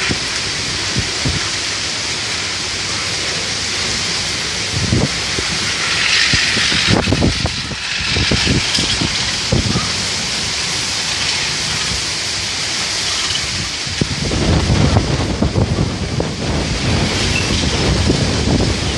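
Strong, gusty wind of a summer storm, a steady loud hiss. In the last few seconds the wind buffets the microphone with low rumbling gusts.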